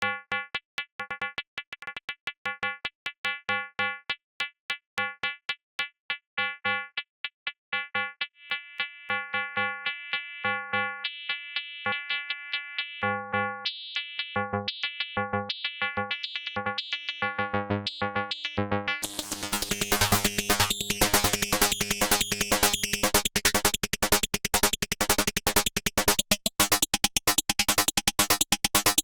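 K-ACCUMULATOR synthesizer module playing short, plucky pitched pings in two-operator FM with just-intonation ratios, a few notes a second and growing denser. About nineteen seconds in it switches to feedback phase modulation: a much brighter, buzzier tone with very fast pings.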